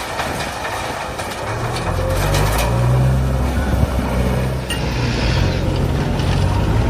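A heavy diesel engine running with its note shifting up and down, coming in strongly about a second and a half in over a clattering, noisy start.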